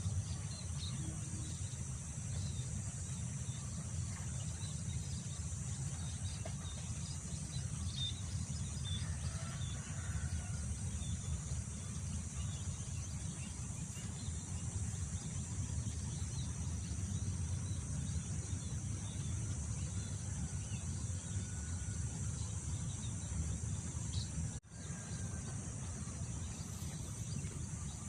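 Outdoor rice-field ambience: wind rumbling on the microphone under a steady high drone of insects, with scattered faint bird chirps. The sound cuts out for a moment about three-quarters of the way through.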